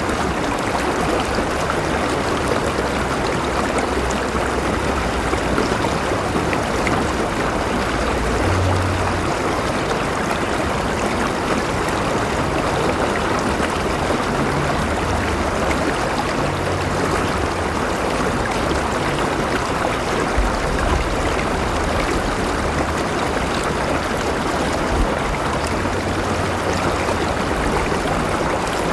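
River water flowing over rocks: a steady, unbroken rush with some gurgling.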